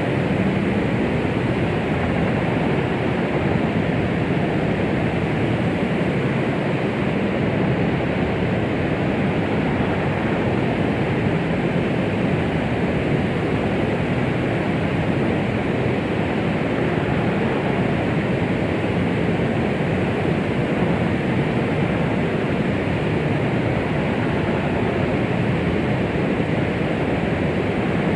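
Steady white-noise track of the 'womb sound' kind used to soothe babies: an unchanging rushing hiss, heavier in the low and middle range and soft in the highs, with no beat or pulse.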